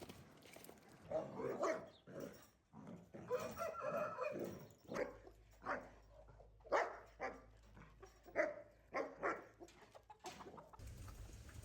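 Domestic animals calling: two drawn-out calls, then a quick run of about eight short calls.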